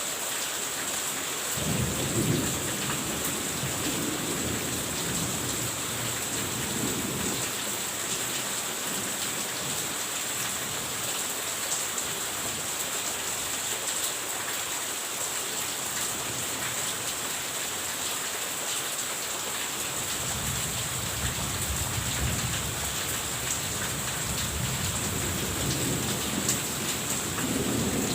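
Steady rain falling, with low rolls of thunder: one rumbling from about two seconds in for several seconds, and another building over the last eight seconds or so.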